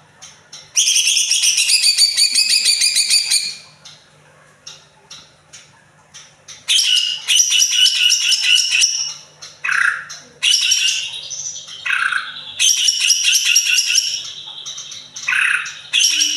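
Green leafbird (cucak ijo) singing loud, rapid, high trilled phrases of two to three seconds each, four times, with quieter short notes between: the bird running through its repertoire of learned songs.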